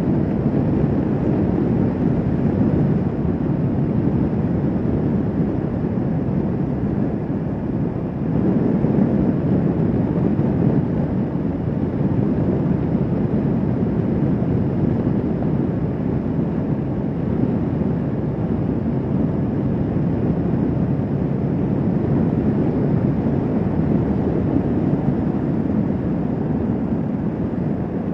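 Kawasaki Vulcan S 650 motorcycle running steadily at road speed, its engine sound mixed with wind rushing over the microphone, easing briefly about eight seconds in.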